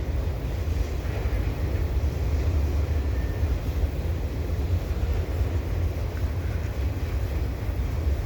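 Freight train cars rolling past on the rails: a steady low rumble of wheels and cars.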